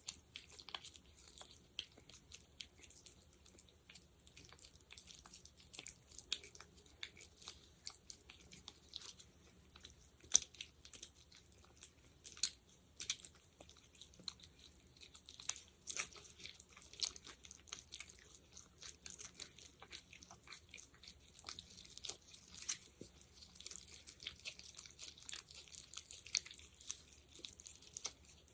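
Sticky, wet crackling of fingers working a thick gel such as aloe gel or petroleum jelly close to the microphone: a dense, irregular stream of small high clicks and pops.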